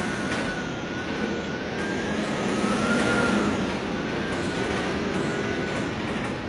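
Typhoon wind blowing hard in a dense, continuous rush, with a thin whistle that wavers slowly up and down in pitch.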